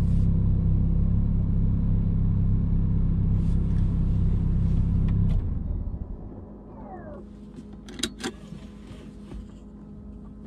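Alpine A110's turbocharged four-cylinder engine idling, heard inside the cabin, drops away suddenly about five seconds in to a much quieter hum. A short falling squeal follows, then two sharp clicks.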